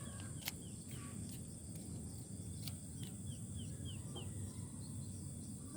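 Open-field ambience: a steady high insect drone over a low rumble, with a bird calling a quick run of about five short falling chirps a little past the middle, and a few faint clicks.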